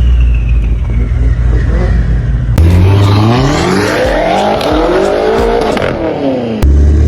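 BMW M-car engine sound clips edited back to back: a steady, deep engine rumble, then after an abrupt cut an engine revving up and falling back, and a further cut near the end to another engine starting to rev.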